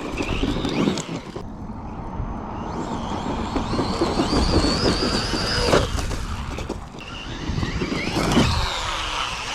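Traxxas Maxx V2 RC monster truck driving hard: its brushless motor whines high, rising and holding for a couple of seconds, over drivetrain and tyre noise on dirt, with a couple of sharp thumps. The drivetrain is clicking, which the driver suspects is a stripped plastic spur gear.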